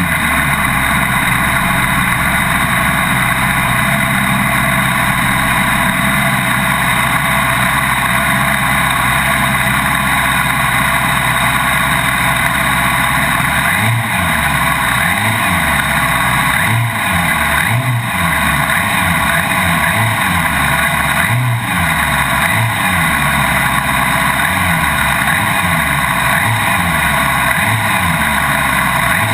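Superbike engine running steadily at high revs. From about halfway its low end starts rising and falling again and again, roughly once a second.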